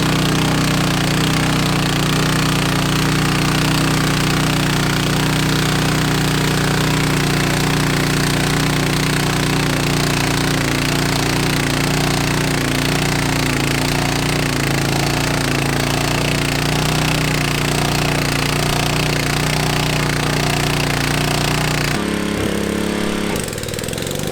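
Modified lawn tractor's engine running hard at steady high revs, with a rapid rattling firing note; the note drops off abruptly near the end.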